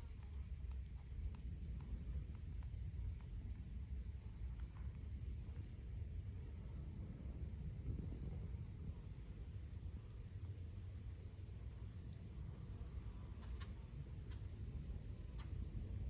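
Small birds giving short, high chirps about once a second, with a brief flurry of calls about halfway through, over a steady low outdoor rumble.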